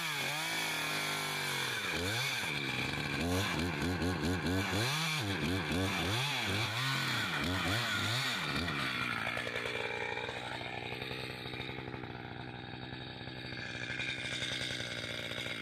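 Two-stroke chainsaw cutting into an oak tree, its engine speed repeatedly rising and falling for the first eight or nine seconds, then running more steadily until it cuts off at the end.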